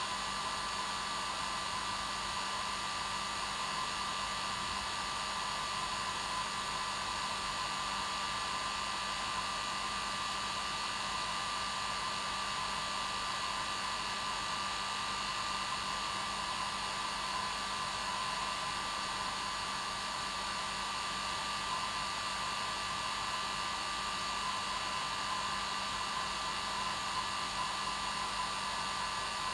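Hair dryer running steadily at one setting, an even rushing hiss with a constant motor whine.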